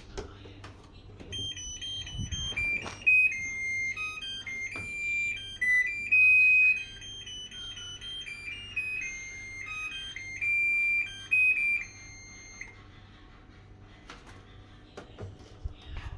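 Sharp washing machine's buzzer playing its tune: a melody of clean electronic beeps lasting about eleven seconds.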